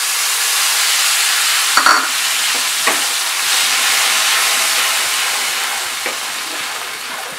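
Wet ginger-turmeric spice paste sizzling hard in hot mustard oil in a kadai, stirred with a flat spatula that knocks and scrapes against the pan a few times. The sizzle slowly eases off near the end.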